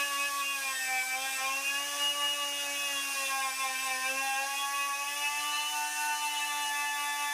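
A small electric power tool running at a steady speed: a whine whose pitch sags slightly twice and recovers as it works against the part.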